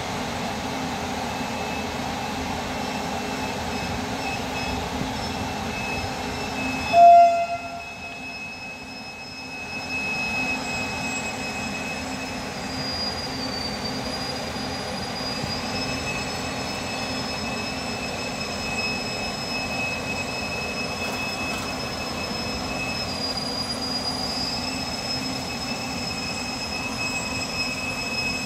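Railway running noise: a steady rumble of train wheels on rails with thin, high squealing tones. A single short, loud horn toot sounds about seven seconds in, and the running noise is quieter for a couple of seconds after it.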